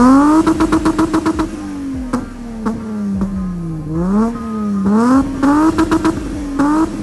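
BMW E30 325i's inline-six engine revved hard, held high for about a second and a half with a rapid stutter, then let fall and blipped up several more times.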